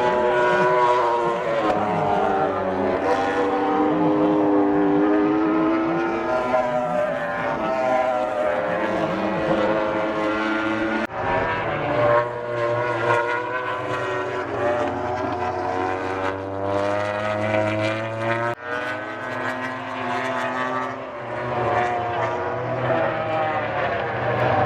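MotoGP racing motorcycles' four-cylinder engines at high revs, their pitch rising and falling. The sound breaks off and changes abruptly twice, about eleven and eighteen seconds in.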